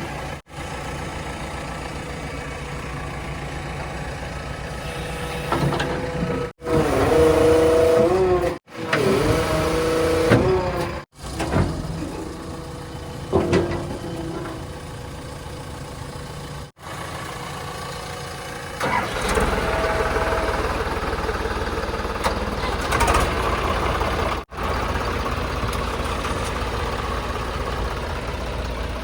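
Heavy vehicle engines running and revving in a string of short clips, each cut off abruptly. A wavering whine rises and falls in the middle clips, and the engine gets louder in the last third.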